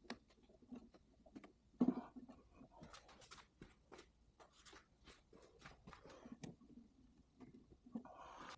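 Faint, scattered clicks and knocks of tools and parts being handled, with one louder knock about two seconds in.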